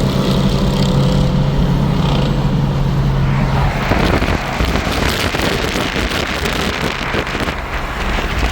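Car engine droning at a steady pitch, heard from inside the moving car. About four seconds in, the drone gives way to a loud rushing noise.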